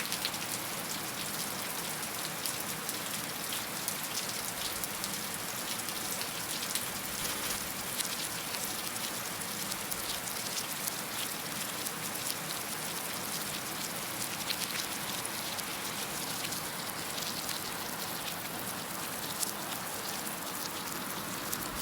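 Heavy rain falling steadily, a dense hiss of drops with many small sharp patters on a surface.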